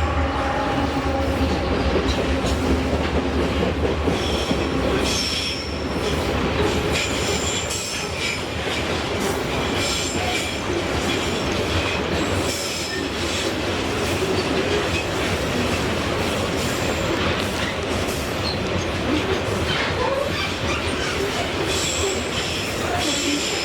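Freight train passing: a low engine drone in the first few seconds, then the wagons rolling by with steady clatter and intermittent high-pitched wheel squeal from about five seconds in.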